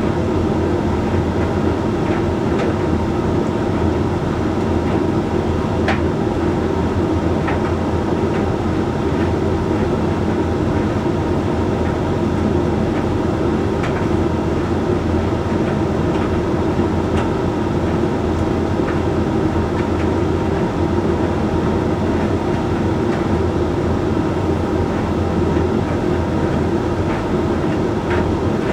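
Hoover Link X Care HLX C10DRGR condenser tumble dryer running mid-cycle on its Whites programme: a steady hum and rumble of the turning drum and fan, with a few light clicks from the tumbling load.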